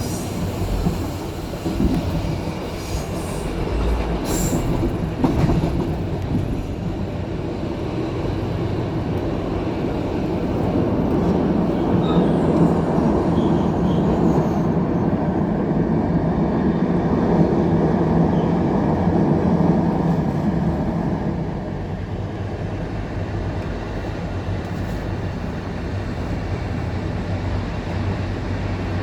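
Passenger train running on the rails: a steady rumble of wheels and carriage, with a few sharp clicks in the first several seconds, growing louder for a while in the middle.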